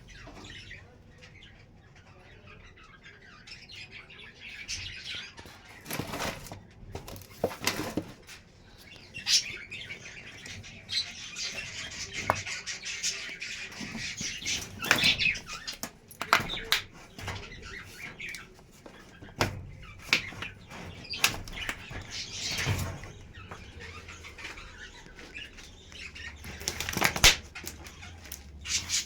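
Budgerigars chirping and chattering, with repeated short bursts of wing flapping.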